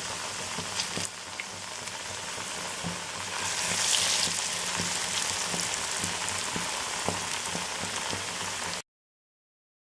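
Parippu vada (split-pea lentil fritters) deep-frying in hot oil, a steady sizzle with a few light clicks and a louder stretch about four seconds in. The sound stops abruptly near the end.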